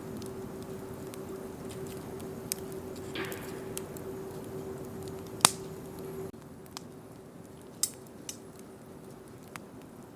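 Wood bonfire crackling, with scattered sharp pops and one loud snap about halfway through. A faint steady hum underneath stops about six seconds in.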